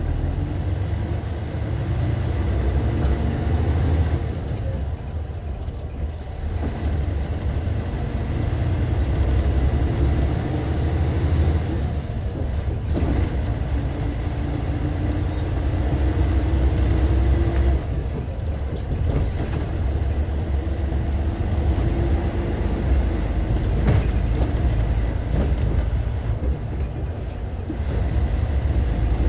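Hyundai D6CC Powertec 380 inline-six diesel of a Hyundai Universe coach with a six-speed manual gearbox, running under way. Its note climbs and drops off several times, as when pulling up through the gears.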